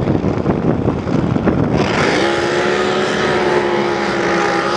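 Drag boat's supercharged race engine idling with a rough, choppy note, then a little under two seconds in it goes to full throttle at the launch: a loud, high engine howl that climbs briefly and then holds a steady pitch.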